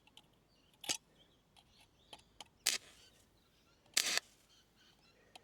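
Stick-welding arc from a 2 mm rod run off two car batteries in series at 24 volts, crackling in three short bursts that sputter out each time the rod is struck: the arc is hard to start. The last burst, about four seconds in, is the longest.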